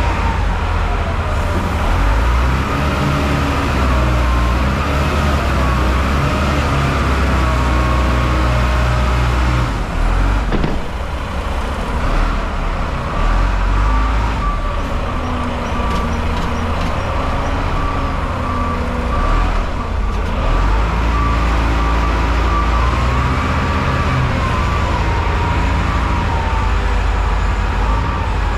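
Wheel loader's diesel engine running and revving up and down as it works the bucket to load salt, with a whining pitch that wavers. In the second half a reversing alarm beeps steadily.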